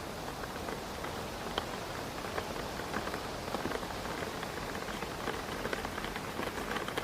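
Steady rain with many individual drops tapping against a window pane, over a constant wash of rain and wind noise.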